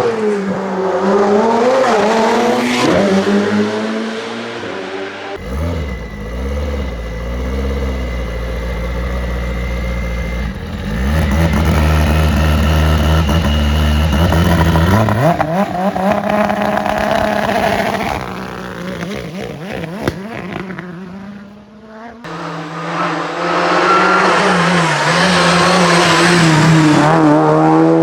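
Racing car engines at full throttle, pitch climbing and dropping with gear changes. Several different cars are heard one after another, with a long rising run-up in pitch about halfway through.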